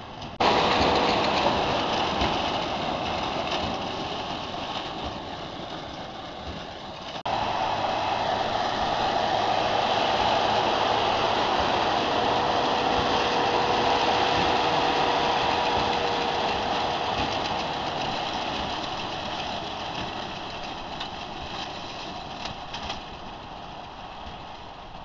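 Fendt 820 Vario tractor's six-cylinder diesel running under load, pulling a Krone Big Pack large square baler at work. The sound jumps up abruptly near the start and again about seven seconds in, then swells and slowly fades away.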